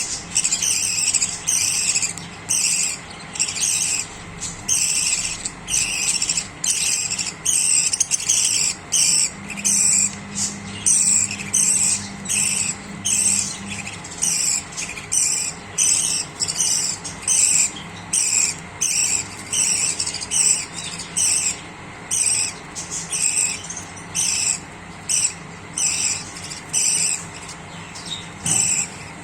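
Small cage birds, budgies or lovebirds, chirping in an even, repeating rhythm of short high-pitched bursts, about one a second.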